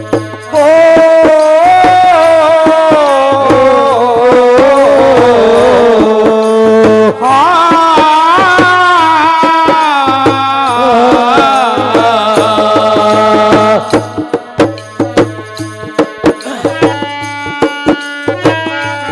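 Instrumental interlude of a devotional bhajan: a loud, sustained melody line over a steady hand-drum beat. About fourteen seconds in the melody drops away, leaving mainly drum strokes with short notes.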